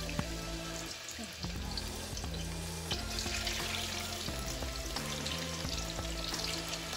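Food sizzling as it fries in hot oil in a pan, the sizzle coming up more strongly about three seconds in, under background music.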